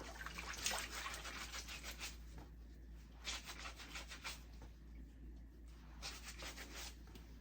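Scrubbing a wig's lace front to rub off wig glue, in three spells of rapid, hissing strokes.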